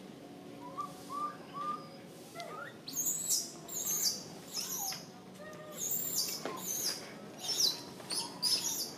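Birds chirping: a few soft rising notes at first, then from about three seconds in a run of quick, high chirps repeating several times a second.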